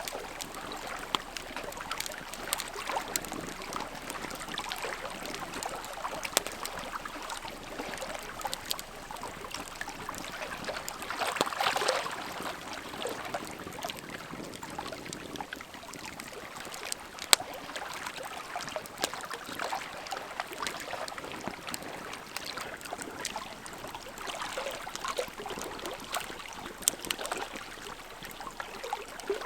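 Big campfire burning, the wood crackling and popping steadily, with a brief surge of hissing about 12 seconds in and one sharp loud pop about 17 seconds in.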